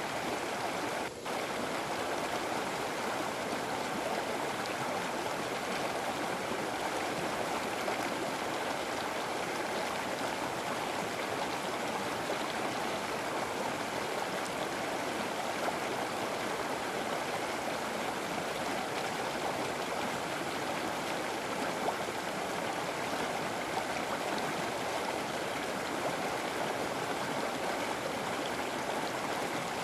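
River water flowing steadily in an even rushing hiss, with a momentary dropout about a second in.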